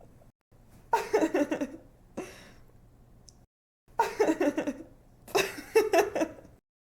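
A young woman laughing in three bursts of quick, pulsing giggles with short pauses between them. The sound cuts off suddenly near the end.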